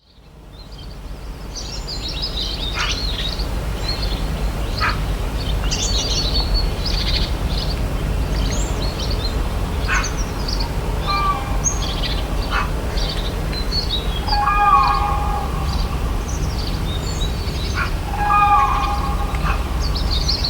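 Birds chirping and calling, many short high chirps overlapping, over a steady low rumble. It fades in at the start, and a louder call comes about two-thirds of the way in and again near the end.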